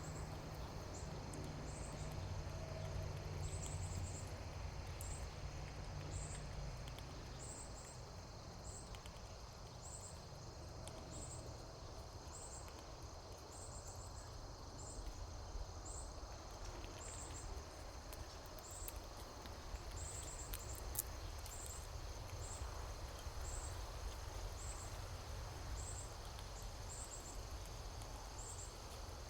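An insect chirping steadily in short, high-pitched pulses, a little under once a second, over a low steady rumble. A couple of faint clicks come about twenty seconds in.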